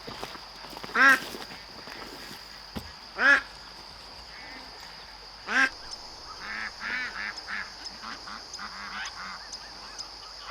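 Domestic waterfowl calling: three loud, short honks about two seconds apart, then a run of softer, quicker chattering calls in the second half.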